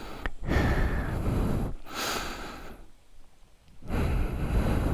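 A person breathing close to the microphone: three long breaths, with a pause of about a second before the last one.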